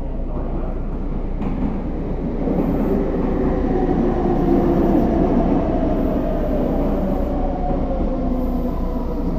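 A red Meitetsu electric train pulling into an underground station platform: motor hum and wheels running on the rails, with several steady tones over the rumble. The sound builds from about two seconds in and is loudest around four to five seconds in as the cars pass, echoing in the enclosed station.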